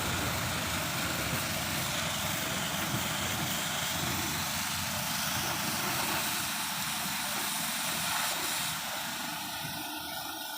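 Steady machine running noise: a low rumble under a broad hiss, easing off near the end.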